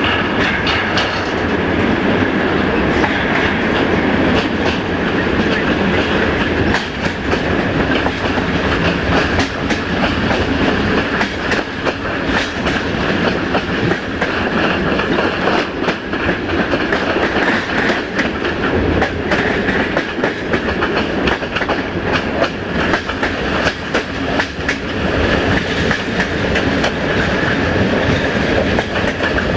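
Train wheels rolling on the track with a steady clickety-clack of clicks over rail joints, a continuous rolling noise with a steady whine on top.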